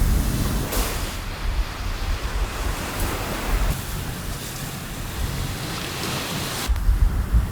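Steady rain noise with a low wind rumble on the microphone; the sound shifts abruptly near the end as the rumble comes back stronger.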